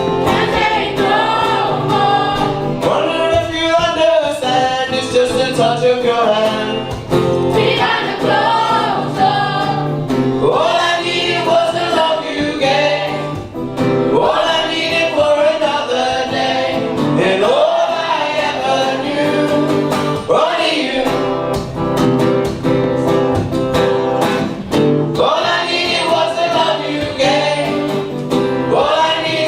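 School choir singing with instrumental accompaniment.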